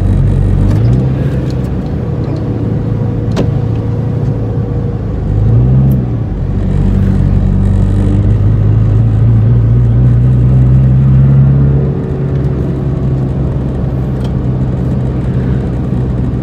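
Car engine running while driving, with road noise; the engine note rises briefly about five to six seconds in, holds steady, then drops away about twelve seconds in.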